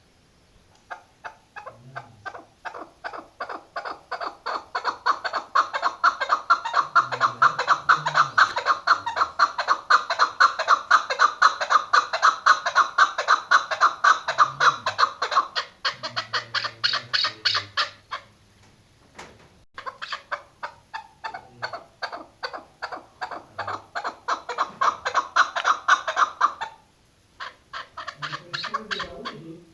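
Chukar partridge calling: a long run of rapid, evenly repeated clucking notes that swells in loudness, breaks off about two-thirds of the way through, then starts up again.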